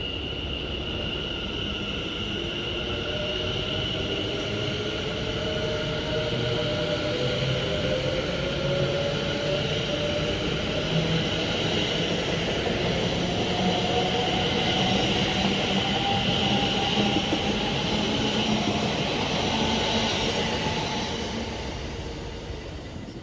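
Electric train accelerating with its traction motor whine slowly rising in pitch over a rumble of wheels on rail, growing louder and then fading near the end.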